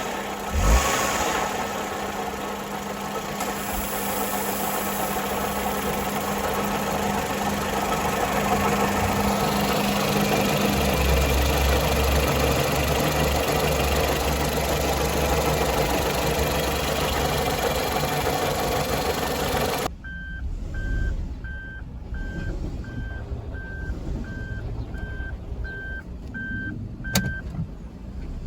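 Suzuki Palette's 660 cc three-cylinder drivetrain running with an abnormal noise that comes from inside the CVT, with a steady low hum that gives way to a deeper rumble about halfway through. About two-thirds of the way in, it cuts abruptly to a quieter spot where an electronic beep repeats about one and a half times a second, followed by a single sharp click near the end.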